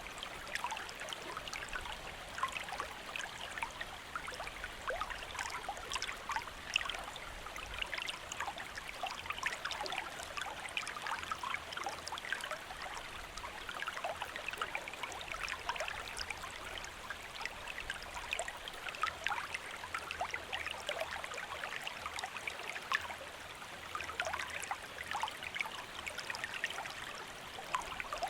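A shallow stream flowing over stones, a steady babble thick with small splashes and trickles.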